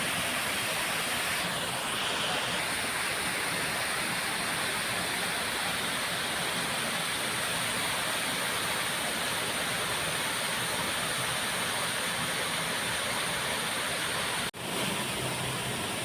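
A waterfall rushing steadily, an even roar of falling water. It drops out for an instant near the end.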